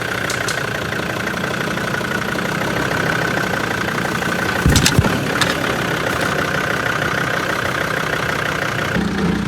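Off-road 4x4's engine running low and steady with a constant high whine, and a couple of sharp knocks about halfway through.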